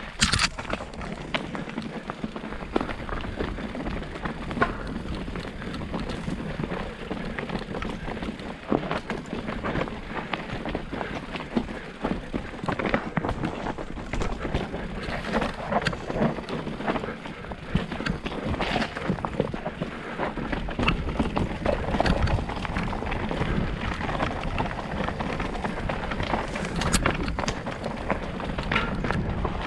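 Mountain bike riding down a rough, rocky trail: tyres crunching over stones and gravel, with frequent rattles and knocks from the bike and a constant rush of wind noise.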